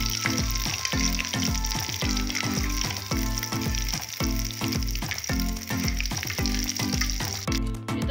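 Potato patties (aloo tikki) frying in hot oil: a steady, bubbling sizzle that cuts off suddenly near the end. Under it runs background music with a steady beat.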